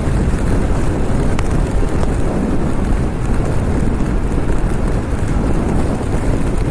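Steady wind rush buffeting the rider's microphone at road speed, over the Kawasaki Z900's inline-four engine running underneath.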